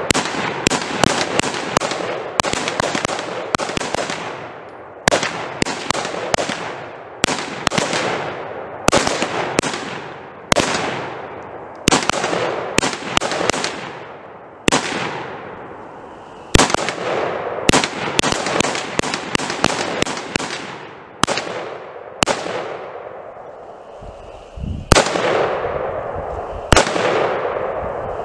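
Sustained gunfire: dozens of shots in quick, uneven strings, several a second at times, with short pauses between strings, each shot trailing off in an echo.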